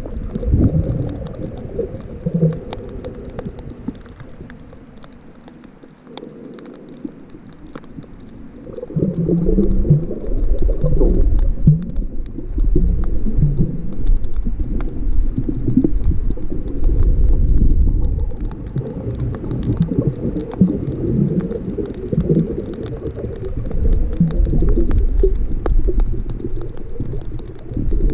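Muffled, low rumbling and gurgling of seawater sloshing, which gets louder about nine seconds in.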